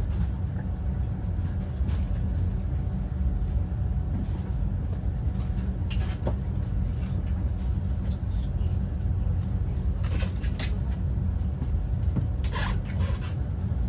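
Steady low rumble of a train in motion, with a few brief higher-pitched sounds breaking through about six, ten and twelve and a half seconds in.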